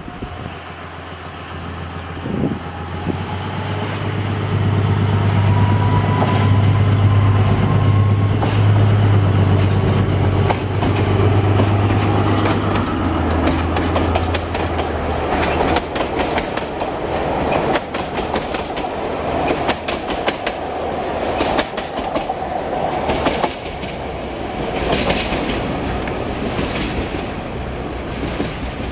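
A narrow-gauge train hauled by a BDŽ Class 75.000 Henschel diesel locomotive passing close by. A strong low engine drone builds up and is loudest in the first half. Then the coaches roll past with wheels clicking over the rail joints, a little quieter toward the end.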